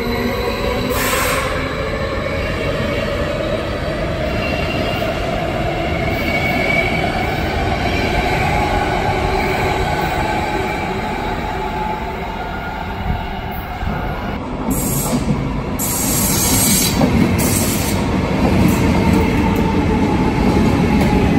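SBB double-deck electric S-Bahn trains running through the station: a steady rumble of wheels on rails, with a whine from the electric drive that rises slowly in pitch over the first several seconds. About two-thirds of the way in there are short bursts of high wheel screech, and the noise grows as a second double-deck train with its locomotive comes past near the end.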